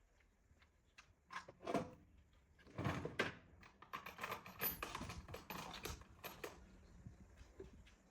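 Irregular clicks, knocks and scrapes of hands working with tools and small parts, busiest in the middle.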